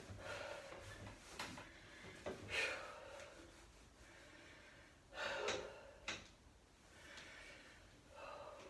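A woman breathing hard from exertion while doing squats, with several short forceful exhales.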